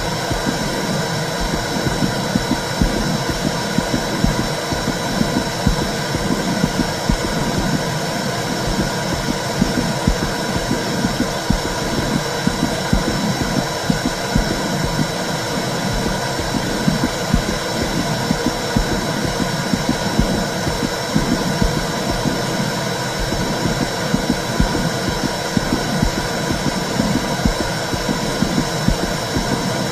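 Womb sound for soothing a baby: a steady, low whooshing noise with a continual pulsing beat running through it.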